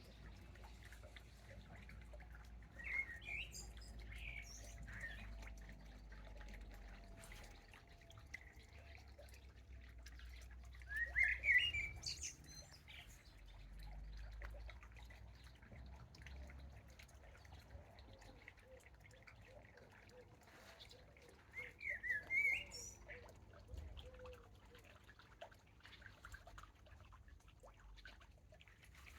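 Birds singing: short bursts of chirping phrases, loudest a few seconds in, about eleven seconds in and about twenty-two seconds in, over a faint low rumble.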